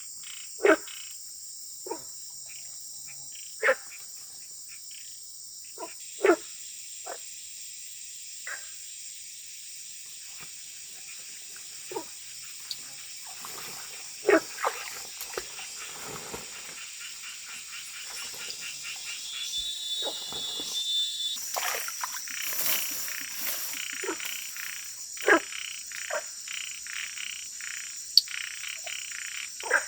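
Wild frogs croaking after rain: short, loud single calls at irregular intervals of one to a few seconds, over a steady high-pitched chorus of insects. The sound grows busier and louder a little past the middle.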